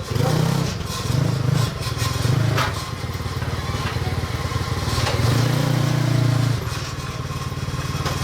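Small motorcycle engine running nearby, revving up and down in several short swells and one longer one, with a brief knock about two and a half seconds in.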